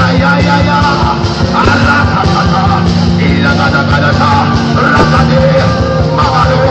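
Loud live band music with singing over a steady drum beat, typical of church praise and worship.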